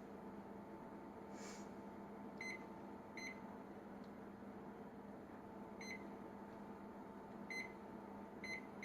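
Microwave oven keypad beeping five times at uneven intervals as the timer buttons are pressed, over a faint steady hum.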